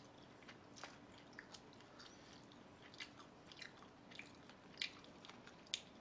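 Faint chewing: a person eating, with soft, irregular mouth clicks and smacks, the sharpest two near the end.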